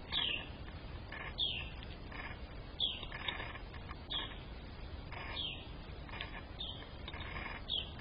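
A bird calling over and over, seven short falling notes spaced a little over a second apart, with softer scratchy sounds in between.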